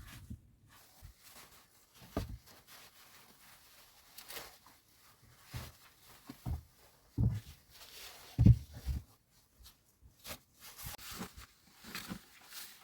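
Irregular knocks, thuds and scrapes at uneven intervals, the loudest two thuds about seven and eight and a half seconds in.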